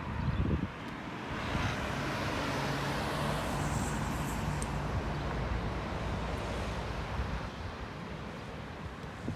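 A car passing by, its engine and tyre noise swelling over a couple of seconds and then fading away. Wind buffets the microphone, with a gust about a second in.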